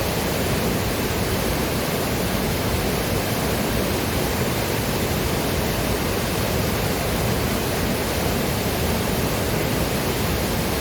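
Waterfall rushing steadily: a dense, even roar of falling water with no breaks or changes.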